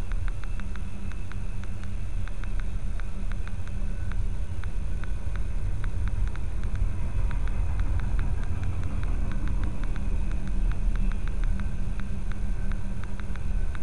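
Freight train of covered hopper cars rolling past: a steady low rumble of steel wheels on the rails with a fast, regular run of clicks, heard from inside a car.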